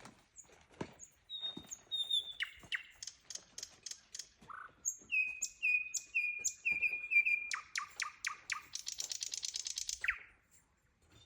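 Nightingale singing: a string of varied phrases of clear whistles and sharp repeated notes, then a fast rattling trill that ends about a second before the close.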